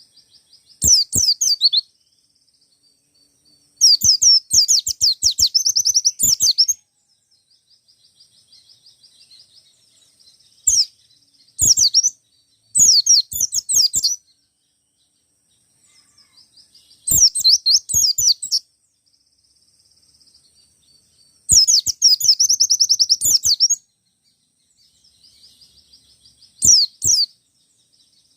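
Wild-type white-eye (pleci) singing: loud bursts of fast, high chattering trills, each one to three seconds long, repeated about eight times, with faint twittering between the bursts.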